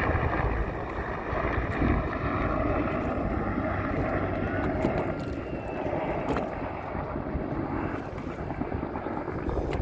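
Wind buffeting the microphone over a steady, distant engine drone.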